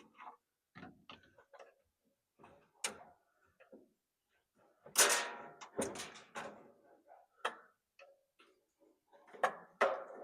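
Scattered clicks, clinks and knocks of tools working on an electric clothes dryer's metal parts to free its electric motor, with a louder rattle about five seconds in.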